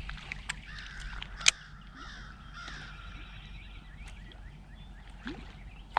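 Birds calling, a series of repeated calls. A few sharp clicks cut in, the loudest about a second and a half in.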